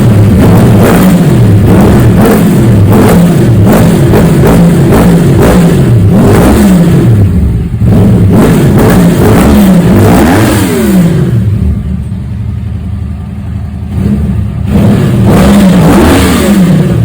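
A vehicle engine revved hard over and over, its pitch sweeping up and falling back about once a second, very loud. About two-thirds through it drops lower for a few seconds, then is revved again near the end.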